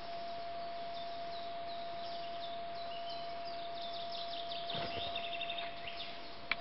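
Small songbirds singing in a forest: scattered short high chirps and a quick run of repeated notes in the second half, over a steady hiss and a faint constant tone. A brief bump, likely a footstep or the camera being handled, about five seconds in, and a sharp click near the end.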